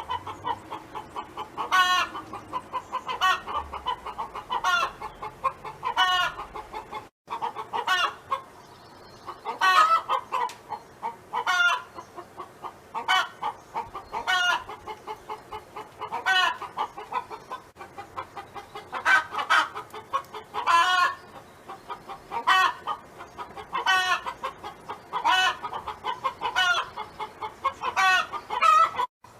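Domestic hen clucking and calling: a steady run of short, pitched notes about once a second over a softer, continuous clucking, with a brief gap about seven seconds in.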